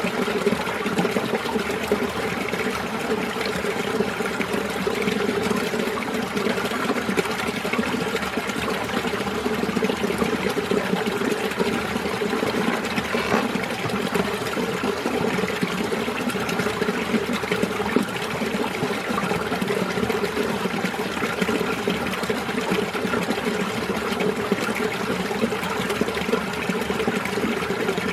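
Winter mountain stream running over rocks among ice, a steady babbling and trickling of water.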